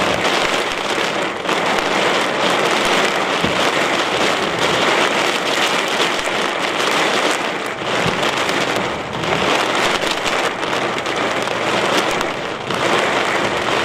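Heavy rain pouring down in a storm, a loud, steady dense hiss with no break.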